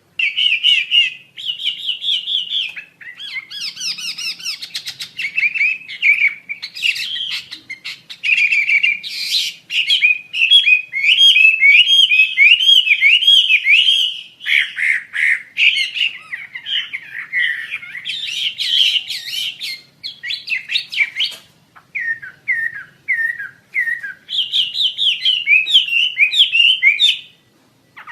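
Asian fairy-bluebird (wambi asia) singing: long runs of quick, repeated rising and falling whistled and chattering notes, broken by a few short pauses and stopping abruptly near the end.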